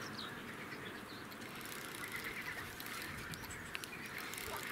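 Quiet outdoor background noise with faint bird calls about two seconds in and again near the end.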